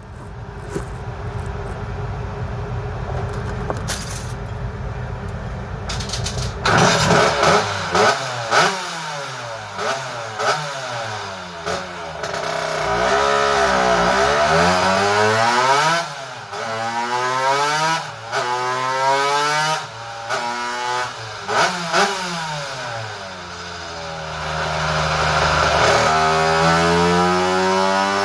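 Two-stroke Vespa smallframe engine with a Quattrini M1L 60x53 cylinder kit and Quattrini RR expansion exhaust. It idles low for the first six seconds or so, then is revved hard again and again, in quick blips and long rising and falling sweeps. Near the end the revs climb and hold high.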